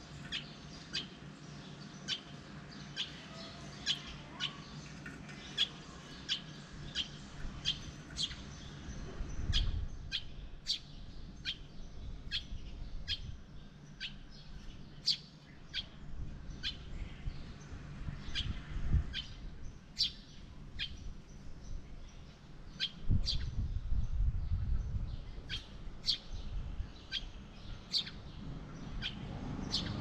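A small bird chirping over and over, short sharp single chirps coming about once or twice a second. Low rumbles come and go beneath it, the longest about two-thirds of the way through.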